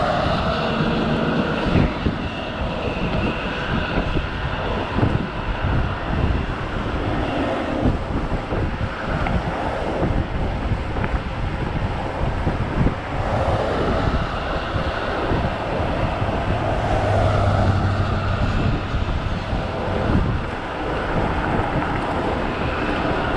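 Wind buffeting the microphone, with road and tyre noise from a Kaabo Wolf GT Pro electric scooter riding along, a steady loud rush throughout.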